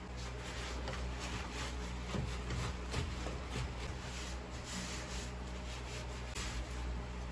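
Soft rustling and handling noises with scattered light taps, over a steady low hum.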